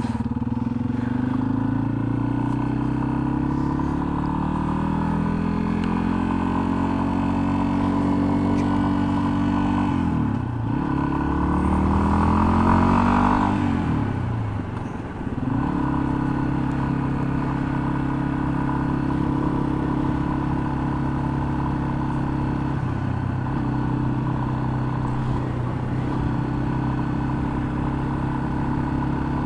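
Single-cylinder engine of a Yamaha XT250 dual-sport motorcycle under way. The engine note slowly falls for about ten seconds, then dips briefly. It revs up and back down over the next few seconds, then settles into a steady cruise broken by two short dips, like gear changes.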